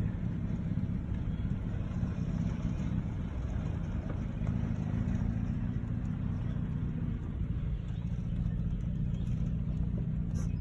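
Truck running at low speed, a steady low engine and road drone heard from inside the vehicle.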